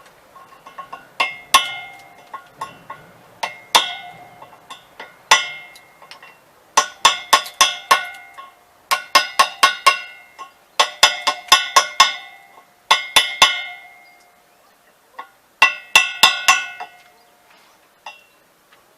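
An old metal wheel struck again and again, each blow ringing like a bell, in quick bursts of three to six strikes with short pauses between, stopping near the end.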